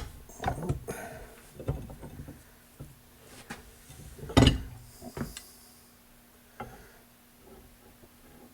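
Metal hand tools clanking and knocking as they are picked up and handled, several uneven sharp knocks with the loudest about four and a half seconds in.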